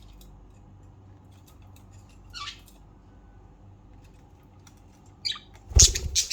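Budgerigars giving short, scratchy high squawks: a single call about two seconds in, then a louder cluster near the end together with a thump.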